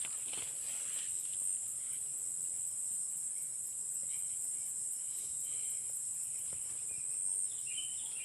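Steady, high-pitched chorus of insects, crickets or cicadas, trilling without a break, with a few faint short chirps in the middle.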